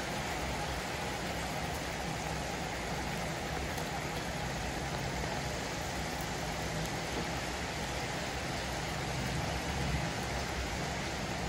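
Chicken curry cooking in a wok, giving off a steady sizzle with a low underlying hum.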